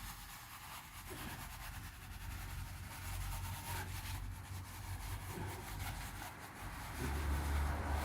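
A hand tool rubbing and smoothing wet mud plaster on an adobe-brick wall, a steady fine scraping. A low rumble comes up near the end.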